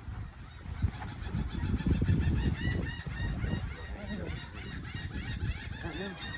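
Birds calling in a fast run of short, repeated high calls, several a second, over a low rumble.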